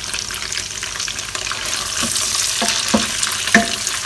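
Diced onion, fried tofu and garlic sizzling in oil in a stainless steel pot while being stirred with a wooden spoon. Three short knocks of the spoon on the pot come in the second half.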